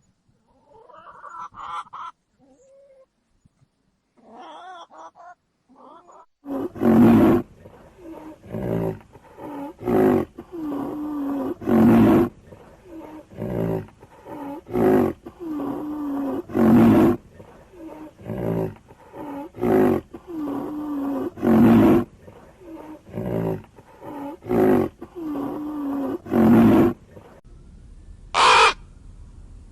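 A big cat giving a long series of rhythmic roaring calls, roughly one a second, some much louder than the rest, after a few softer calls at the start. A short shrill call comes near the end.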